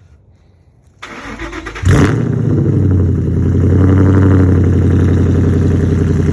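2011 Mustang GT's 5.0-litre V8 cranked by the starter for about a second, then catching with a loud bark and settling into a steady, loud idle. The catalytic converters and mufflers have been removed from the exhaust.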